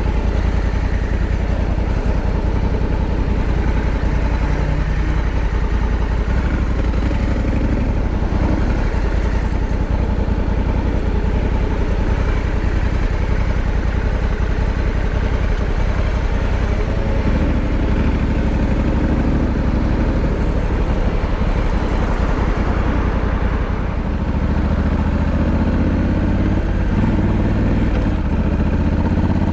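Honda Africa Twin 1100's parallel-twin engine running steadily, its pitch climbing over the last few seconds as the revs rise.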